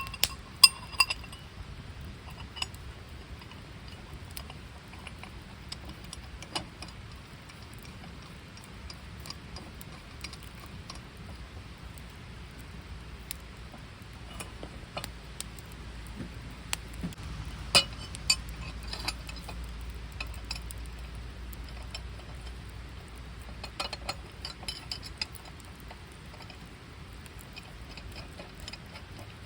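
Scattered clinks and knocks of metal and glass camping gear being handled, a few louder clacks near the start and again around the middle, over a steady low background.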